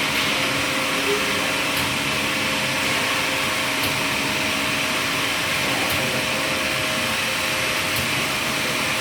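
Automatic bottle washing machine running: a steady hiss over a motor hum, with a faint click about every two seconds.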